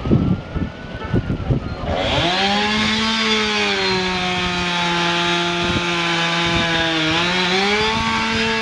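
A chainsaw engine running at high revs while cutting up a fallen tree, starting abruptly about two seconds in with a steady, loud buzzing tone. Its pitch sags a little in the middle and rises again near the end. Before it there are two seconds of rough, irregular noise.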